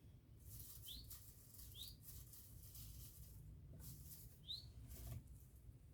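Faint intermittent rustling in dry leaf litter from an armadillo foraging on the ground. Three short rising bird chirps come through, two in the first two seconds and one about four and a half seconds in.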